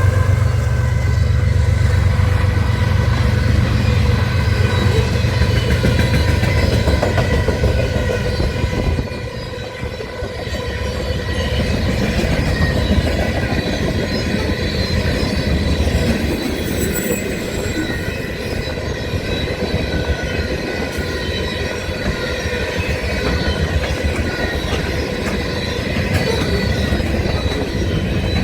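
Freight train rolling past: steady wheel and rail noise with squealing from the wheels. A heavy low rumble eases off about nine seconds in.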